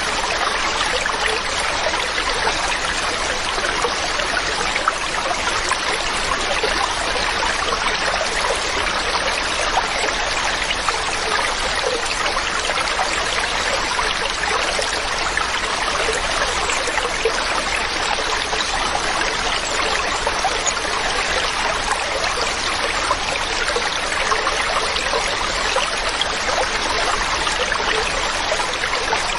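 Mountain stream running over rocks: a steady, even rush of flowing water with fine splashing and trickling.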